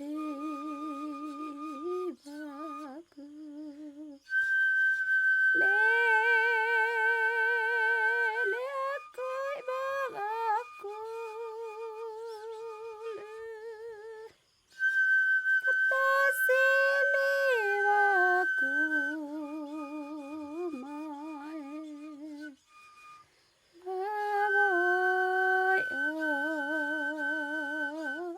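Music: a wordless hummed melody with a strong vibrato, in three long phrases, each opening on a held high note before wavering lower notes.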